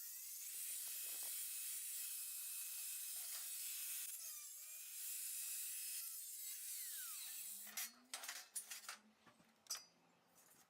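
Power drill running faintly with a high hiss, its pitch sliding now and then, while the register plate is screwed to the wall; after about seven seconds it gives way to a few sharp clicks and knocks.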